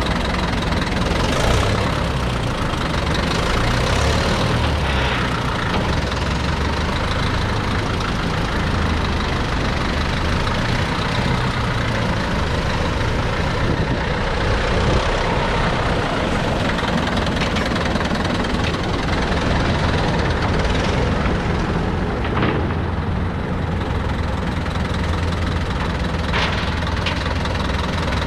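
Deutz F4L514 air-cooled four-cylinder diesel tractor engine running steadily.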